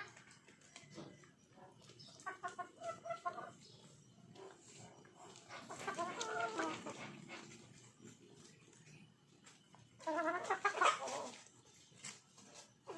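Chickens clucking and calling in three bouts, about two, six and ten seconds in; the middle bout is a longer, wavering call.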